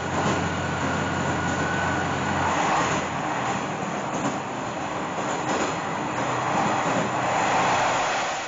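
Sanriku Railway diesel railcar running along the line, a steady rush of rail and running noise. A low hum stops about two and a half seconds in.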